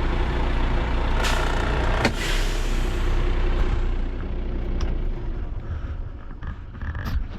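Heavy diesel truck running from inside the cab while driving, a steady low rumble with two short bursts of noise about one and two seconds in. The sound eases off in the second half as the truck slows.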